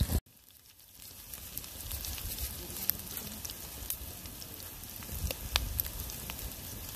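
Chilies, lemongrass and galangal sizzling in hot oil in a steel wok over a wood fire, with scattered sharp crackles. The sound cuts out sharply just after the start and the sizzle comes back in about a second later.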